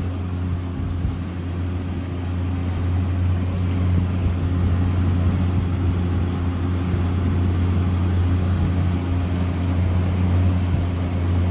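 A steady, unchanging low machine hum with no speech.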